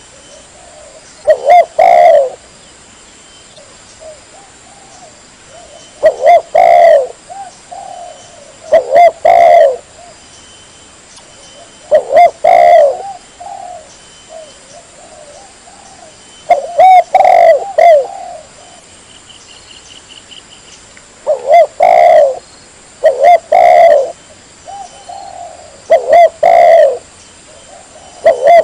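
Spotted dove (tekukur) cooing: loud short phrases of low coos repeated every few seconds, with softer coos in the gaps. Its call is played as a lure to draw wild doves in.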